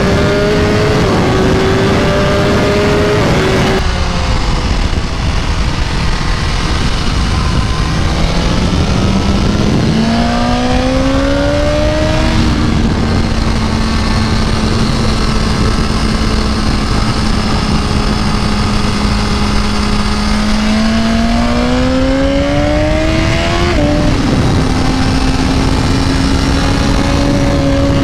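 BMW S1000RR inline-four sportbike engine heard onboard at speed on track, over heavy wind noise. Its pitch climbs and drops several times, with sudden drops at the gear changes, and it holds one steady note through a stretch in the middle.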